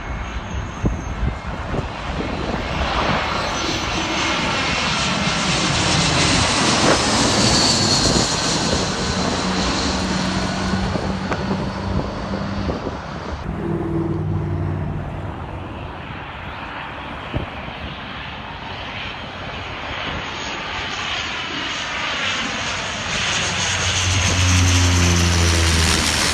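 Airplane engines running as aircraft pass, with a steady rush and a high whine. The sound swells, fades in the middle and grows loud again near the end.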